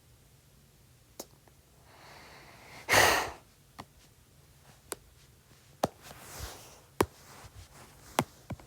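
A person's loud, breathy sigh about three seconds in, with a fainter breath later and scattered light clicks and taps.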